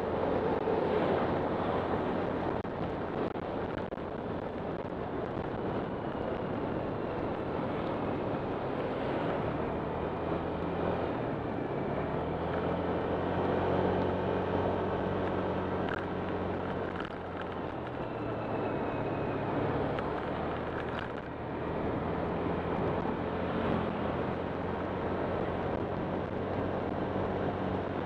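Honda Click 125 scooter's single-cylinder engine running under way, a low hum that holds steady for stretches and shifts a little in pitch, mixed with rushing air noise.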